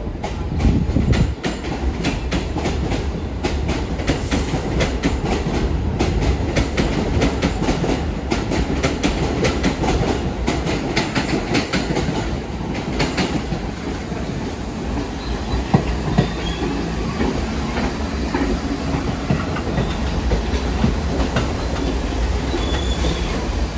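New York City subway train running through the station, its wheels clacking rapidly over the rail joints for about the first 13 seconds, then a steadier low rumble.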